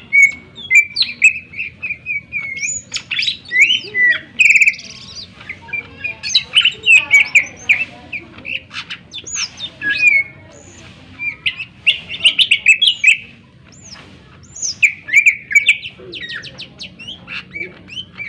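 Cucak ijo (green leafbird) singing loudly: a fast, varied song of sharp whistles, up-and-down sweeps and trills in quick bursts, with brief pauses.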